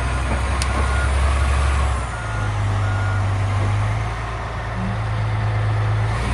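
Caterpillar D11T crawler dozer's big diesel engine running, its pitch stepping up about two seconds in, with the reversing alarm beeping in short regular beeps through the first half.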